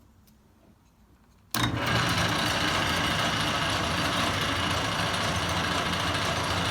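Atlas TH54 metal lathe switched on about a second and a half in, then running steadily with a mechanical hum, its spindle in direct drive with the slower back gears not engaged.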